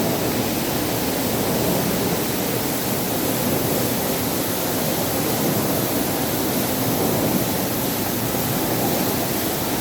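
Ginger washing machine running: a steady, unbroken rush of water and machine noise as the ginger is washed.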